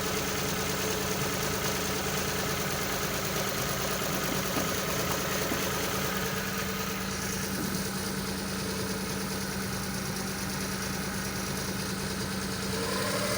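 Suzuki F6A three-cylinder engine idling, its speed rising a little near the end; the owner's complaint is an idle that hunts up and down.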